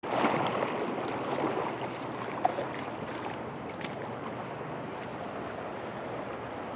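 Heavy rain falling, a steady hiss with a few sharp ticks and knocks.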